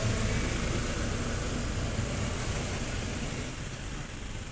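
Toyota Corolla petrol engine running at idle, a steady low rumble with hiss, easing slightly in level over the few seconds. The engine has an idle problem with a camshaft actuator circuit fault code, put down to a faulty VVT-i sensor.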